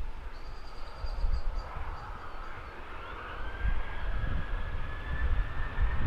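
Boeing 737-800's CFM56 turbofan engines spooling up for a departure: a whine that rises slowly in pitch over a low rumble, growing louder toward the end.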